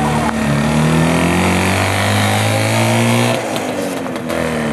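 Engine of a small three-wheeled vintage car pulling away and accelerating, its pitch climbing steadily. About three and a half seconds in the pitch drops and the sound gets quieter as the car moves off.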